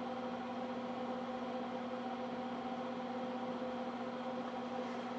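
Arc welding in progress: a steady sizzling crackle from the arc over a constant electrical hum from the welder.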